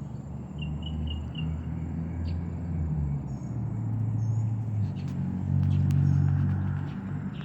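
A low, uneven rumble, loudest about six seconds in, with a short run of faint high chirps near the start.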